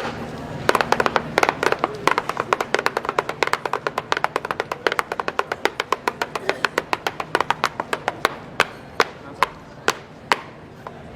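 Fast rhythmic tapping and clicking of shoes used as a percussion instrument. The taps run densely for most of the stretch, thin out to a few spaced strikes, then stop about a second before the end.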